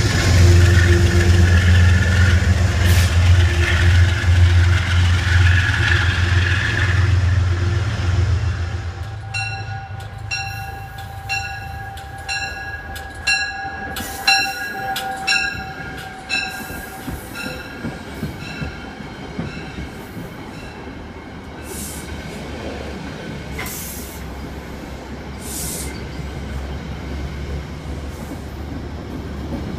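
A Metro-North Genesis diesel locomotive's engine running with a steady low drone as it moves off. About nine seconds in, a train of Shoreliner coaches rolls slowly past with a bell ringing about one and a half times a second for several seconds. After that there is quieter wheel and rail noise with a few short high squeals.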